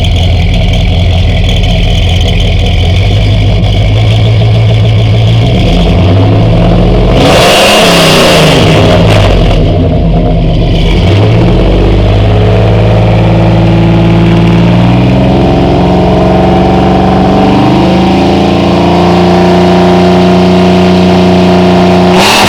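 1997 GMC K1500 pickup engine running through a newly fitted exhaust: a Y pipe into a single 40 series Flowmaster muffler, then dual tailpipes. It idles, is revved sharply about seven seconds in, blipped again a few seconds later, then held at a raised, steady speed with small dips, and revved once more at the end.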